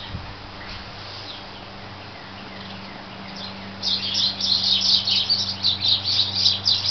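A small bird chirping rapidly and loudly from about four seconds in, after a few faint chirps earlier, over a steady low hum.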